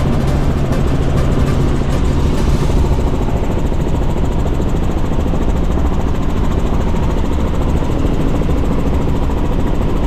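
Helicopter in flight, its engine and rotor making a steady, loud drone. About three seconds in, a low hum fades and the high hiss drops away.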